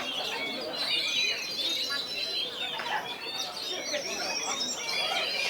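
Several oriental magpie-robins singing at once in a dense, continuous tangle of varied whistles, trills and chirps.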